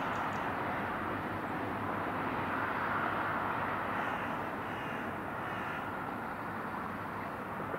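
Irish Rail 071 Class diesel locomotive and its train of freight wagons running past and moving away, a steady rumble that fades a little in the second half.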